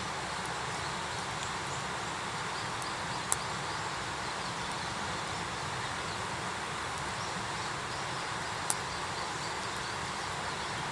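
Wood campfire burning with a steady hiss and two sharp pops, about three seconds in and again near nine seconds.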